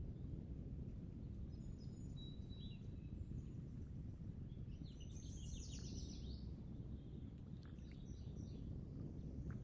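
Small birds chirping, with a quick trill about halfway through, over a steady low outdoor rumble.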